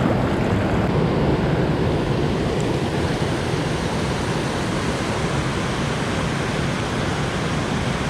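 Steady rush of flowing river water, an even hiss and roar with no pitch and no breaks.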